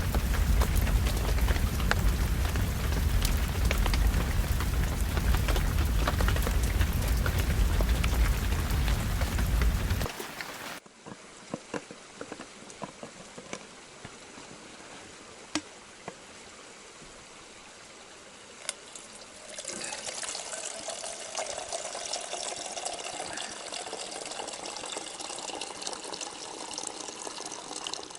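Water rushing loudly for about ten seconds, then, after an abrupt change, a quieter stretch with a few sharp clicks, and from about twenty seconds in, water being poured.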